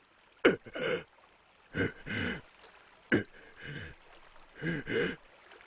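A person gasping and grunting for breath, about six short voiced gasps in a row with pauses between them: winded and out of breath.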